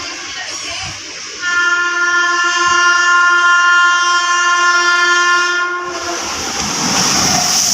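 Locomotive horn sounding one long steady blast of several tones for about four seconds, followed by the loud rushing noise of the locomotives running through close by.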